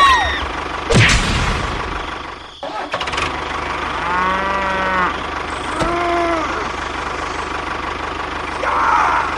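A cow mooing twice, a longer call about four seconds in and a shorter one around six seconds, over a steady low engine hum, with a single thump about a second in.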